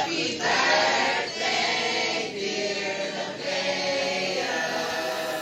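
Several voices singing long held notes together, like a choir, in phrases about a second long.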